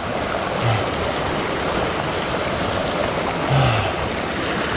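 Rain-swollen creek rushing over rocks: a steady, loud rush of flowing water.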